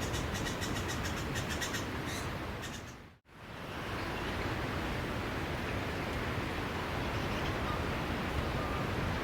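Steady rush of sea waves, with rapid high-pitched chirping over it for the first couple of seconds. The sound dips briefly to silence about three seconds in, then the steady wash of surf returns.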